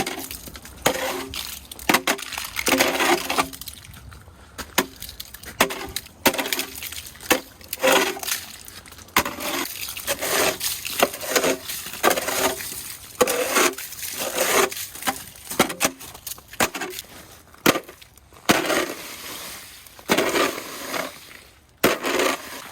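Ice being chipped and broken off, with irregular sharp knocks and cracks about one or two a second and a clink as pieces break away.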